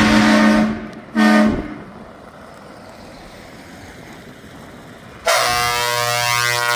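Truck air horns sounding: a held blast cuts off under a second in, a short toot follows just after a second, and after a few seconds of quieter engine noise another horn with a different pitch starts about five seconds in and holds.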